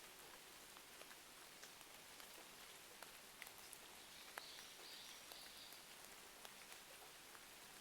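Faint rain and fireplace ambience: a steady hiss of rain with scattered small crackles and ticks.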